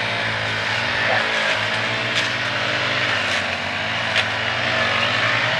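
An engine running steadily at an even speed, with a few sharp clicks about two, three and a half and four seconds in.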